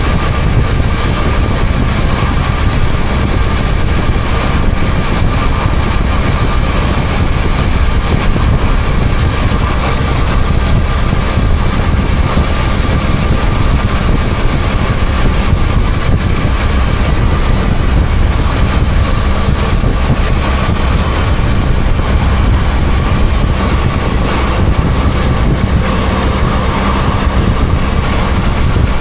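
BMW F800GS motorcycle's parallel-twin engine running at a steady cruising speed, heard from the rider's seat. A strong low rumble carries a thin, steady whine above it, with no change in pace.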